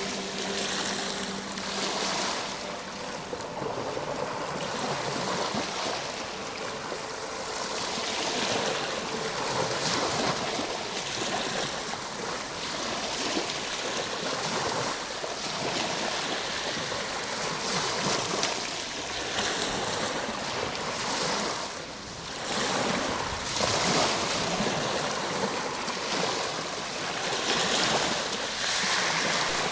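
Ocean surf: a steady wash of waves that swells and ebbs every few seconds. A soft held music tone fades out just after the start.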